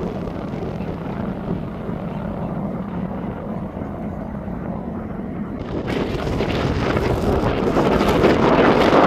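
Jet airliner engine noise: a steady low rumble, then just before six seconds a sudden, louder rushing noise that swells toward the end.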